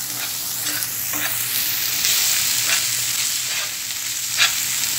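Onions and spice paste sizzling in oil in a nonstick frying pan while a silicone spatula stirs through them, with a short scrape every second or so and the loudest scrape near the end.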